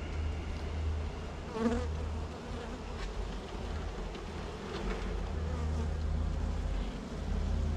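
Honey bees buzzing around an open hive as its frames are inspected, with one bee's buzz swelling loud as it passes close about two seconds in. A low steady rumble runs underneath.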